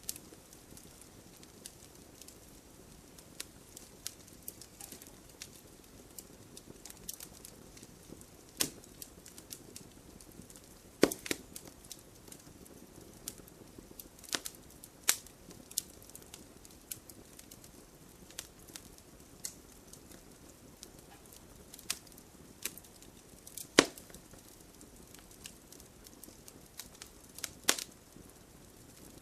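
Wood campfire crackling: irregular sharp pops and snaps over a soft steady hiss of burning, with a few louder cracks scattered through.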